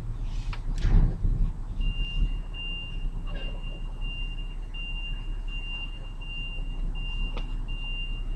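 A vehicle's reversing alarm beeping steadily, one high beep about every half second, starting about two seconds in, over the low hum of an idling engine. A few short scrapes and knocks come in between.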